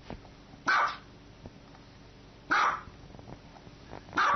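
Small dog barking three times, single short high-pitched barks spaced about two seconds apart.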